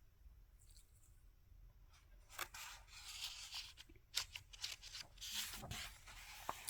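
Paper rustling as the pages of a picture book are handled and turned: a series of brief, faint crinkly scrapes starting about two seconds in.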